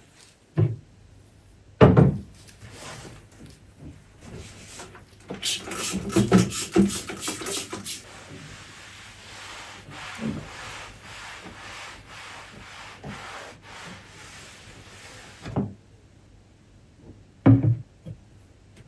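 Household handling sounds: a few knocks and thuds of objects being set down, with a stretch of scraping and rubbing, like wood being slid or a surface being wiped, in the middle.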